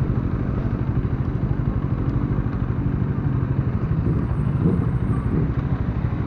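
Bajaj Dominar 400's single-cylinder engine running steadily at low revs, a low, pulsing engine note.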